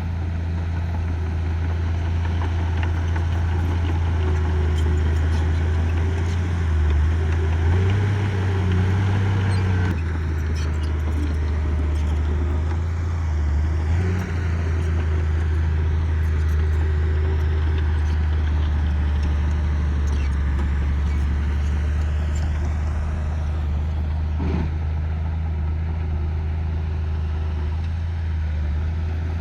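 Diesel engine of heavy earthmoving equipment running steadily under load, revving up for a few seconds a quarter of the way in and easing off again.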